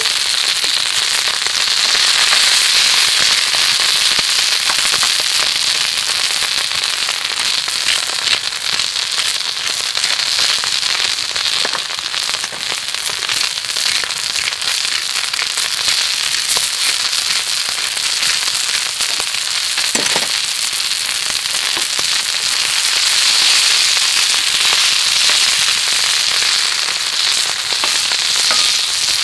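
Food frying in hot oil in a pan: a steady, dense sizzle full of small spits and pops.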